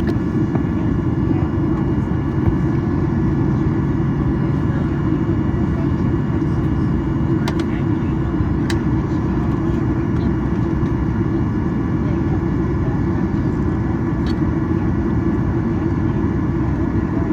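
Steady rumble of a Boeing 737-800 heard from inside the passenger cabin during ground de-icing, with a few faint clicks.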